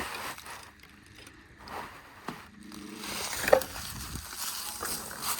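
Footsteps crunching through dry grass and brush, with scattered sharp clicks and one louder crunch about three and a half seconds in.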